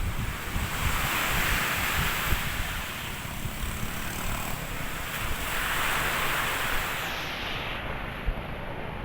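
Storm-driven sea waves surging in twice, each a swelling rush of surf, with strong wind buffeting the microphone.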